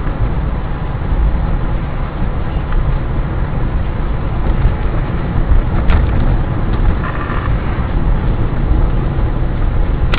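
Steady rumble of a car's engine and road noise, with one short click about six seconds in.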